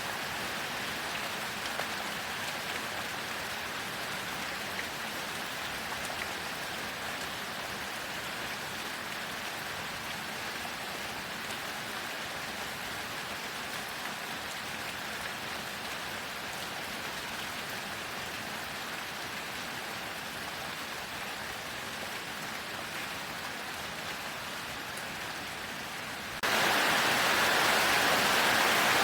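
Steady heavy rain, an even hiss of drops falling on a surface. Near the end it jumps abruptly to a louder, brighter downpour.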